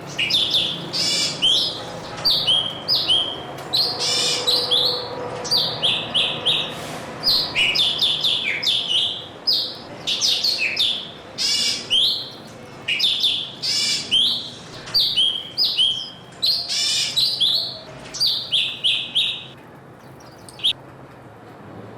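Small songbirds chirping busily, many short high calls and quick twittering runs in close succession, stopping near the end.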